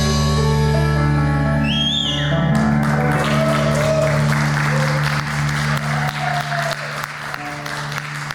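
A live band's final chord rings out with held notes, then the audience breaks into applause about two and a half seconds in. The applause slowly dies down.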